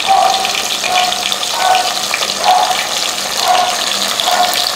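Quartered whole brinjals and shallots sizzling in hot sesame oil in an aluminium pot as they are dropped in and stirred with a spatula. Behind the sizzle, a short mid-pitched tone comes back a little more than once a second.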